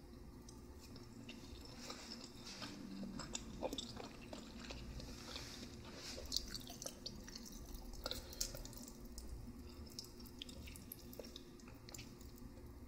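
Close-miked chewing of noodles, with wet smacking and clicking mouth sounds that come thickest in the middle.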